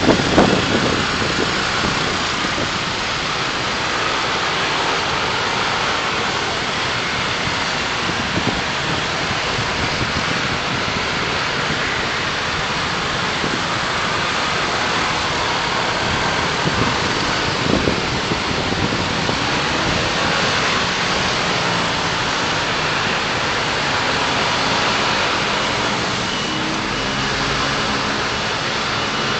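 Steady hiss of road and traffic noise from a car driving on city streets, with a few brief knocks. Faint high beeping starts near the end.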